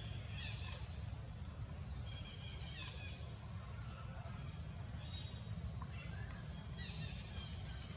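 Short high-pitched animal chirps and squeaks, several falling in pitch, repeating over a steady low rumble.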